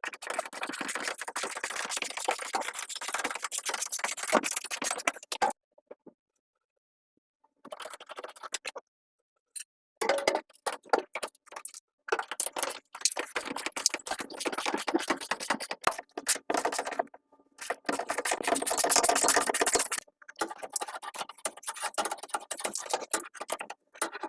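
Ratchet wrench clicking rapidly in several runs with short pauses, working a rusted fuel-tank strap nut.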